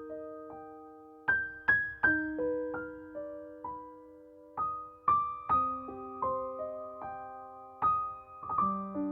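Soft solo piano music: single struck notes and chords that ring on and slowly die away, a few notes a second.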